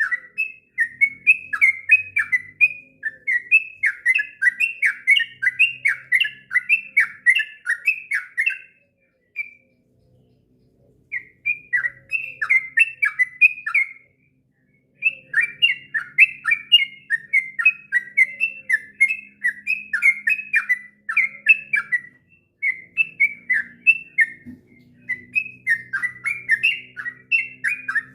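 Yellow-vented bulbul (trucuk) singing a long, fast run of chirping notes that rise and fall in pitch. The song is nearly continuous, with short breaks about nine and fourteen seconds in.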